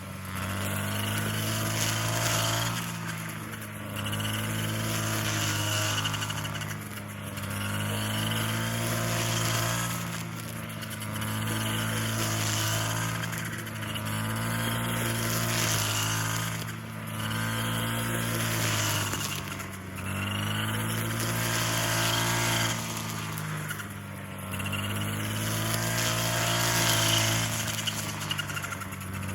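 A small engine or motor running, its sound swelling and dipping in a regular cycle about every two to three seconds.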